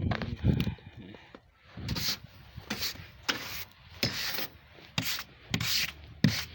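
A snow brush sweeping snow off a car's body in repeated strokes, a scratchy swish about every 0.7 seconds starting around two seconds in, after a few light knocks.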